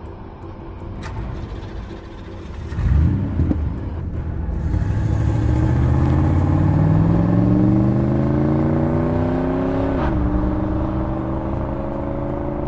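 Chevrolet Corvette V8 engine starting about three seconds in, then pulling hard with its pitch rising steadily as the car accelerates. About ten seconds in the pitch drops at an upshift and begins rising again. A faint ticking music beat runs under it at the start and end.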